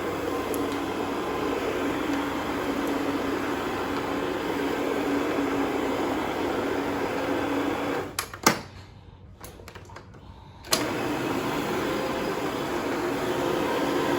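A steady mechanical drone with a low hum in it. It drops out for about three seconds past the middle, and sharp clicks mark where it stops and starts again.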